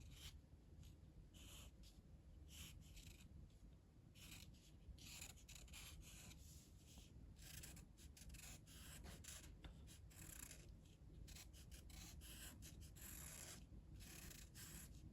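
Faint scratching of a pen on paper in many short, irregular strokes while drawing leaves, over a low steady hum.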